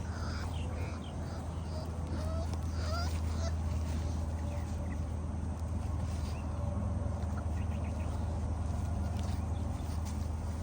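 Young puppy whimpering, a few short high squeaks rising in pitch in the first three seconds or so, over a steady low hum.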